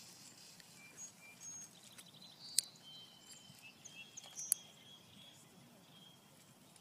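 Faint open-air ambience with scattered high chirps of small birds, and two sharp clicks about two seconds apart.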